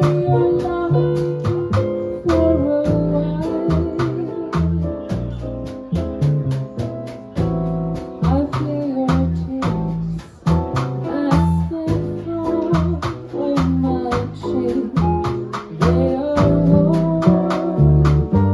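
Live jazz band playing a bossa nova: plucked double bass and drums keep the beat under keys, with a wavering melody line above.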